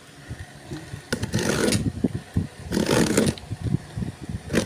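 Parcels and packaging being handled: two scraping, rustling bursts, with a few sharp knocks.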